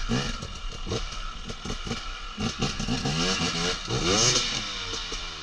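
Off-road motorcycle engine revving up and down in short throttle blips, over a choppy low idle with some clatter.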